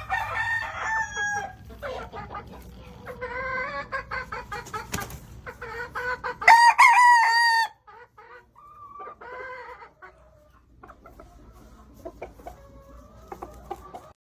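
Gamefowl roosters crowing and clucking, several birds at once. One loud, close crow comes about halfway through and holds for about a second, among fainter crows and clucks.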